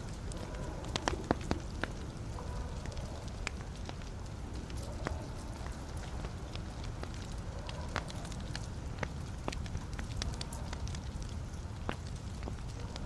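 Wood fire burning in a fireplace: a steady low rumble of flames with irregular sharp crackles and pops scattered throughout, a few louder snaps about a second in.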